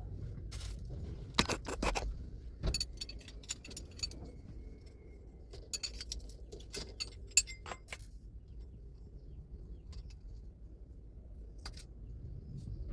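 Small metal objects clinking and jangling in several short bunches of sharp clicks, with a quieter gap before a last single clink near the end.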